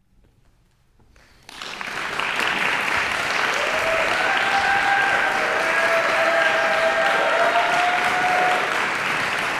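Audience applause breaks out suddenly after a second or so of silence at the close of a choral piece, dense and steady, with a few long calls of voices cheering over it.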